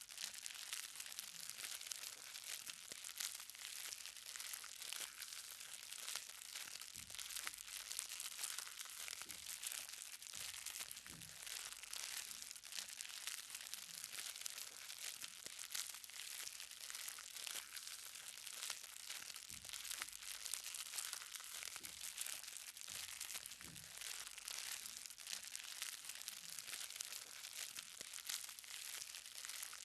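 Light rain falling on the ground, a steady dense crackle of many small drops.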